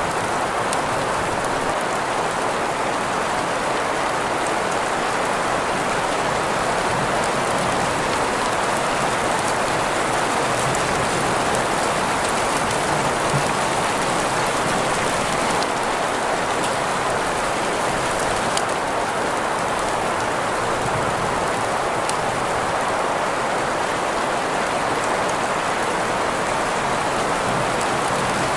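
Steady rain: an even, unbroken hiss strongest in the middle range, with faint scattered drop ticks.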